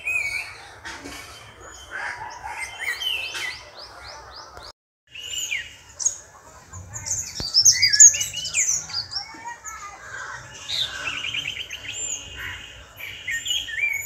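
Birds chirping and singing in quick, high calls, with a rapid trill about eleven seconds in. The sound cuts out for about half a second a little under five seconds in.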